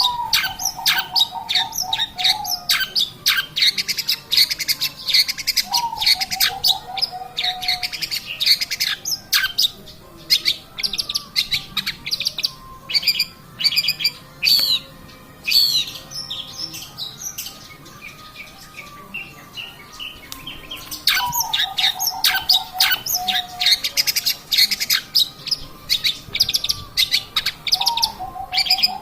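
Long-tailed shrike (cendet) singing continuously in rapid, high, chattering phrases that thin out in the middle. A lower trill, about two seconds long and falling in pitch, comes four times.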